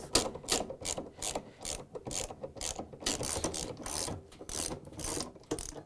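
Socket ratchet clicking steadily, a few clicks a second, as a 13mm counterweight bolt on a washer is backed out; it stops near the end.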